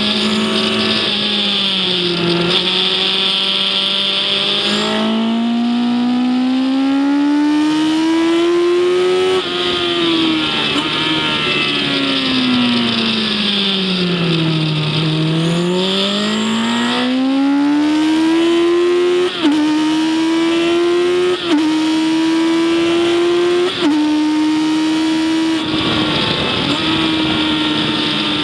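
Onboard sound of a race vehicle's engine lapping a circuit at speed. The revs climb, fall away for a slow stretch about halfway through, then climb again through three quick upshifts, over a steady rush of wind.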